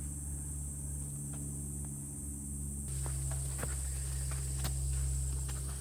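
Footsteps of a hiker walking on a wet, muddy trail: scattered soft steps, most of them after about three seconds in, over a steady high hiss.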